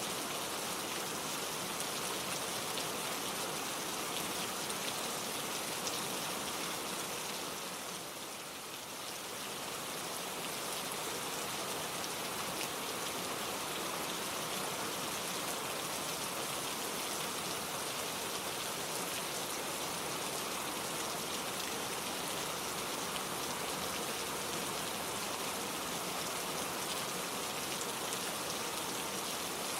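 Gentle, steady rain falling, without thunder; it softens briefly about eight seconds in.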